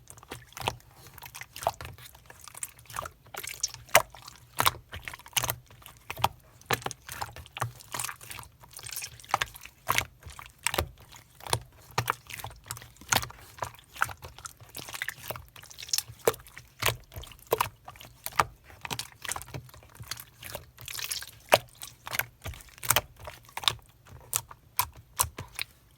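Slime being squeezed and pressed by hands, giving a continuous run of sticky, wet clicks and pops, several a second.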